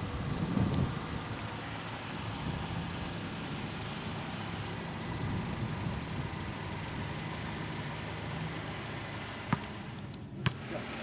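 Car engine running steadily. Two short sharp knocks come near the end, about a second apart.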